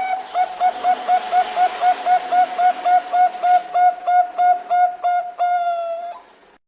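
Zebra dove (Thai-bred perkutut bangkok) singing: a fast run of short cooing notes, about four a second, ending in one long drawn-out note that cuts off abruptly.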